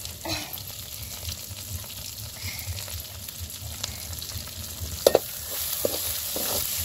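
Onions and tomatoes sizzling in hot oil in an iron kadai while a metal ladle stirs them, with small crackles as curry leaves go in. About five seconds in the ladle knocks sharply against the pan with a short ring, and once more, more softly, just after.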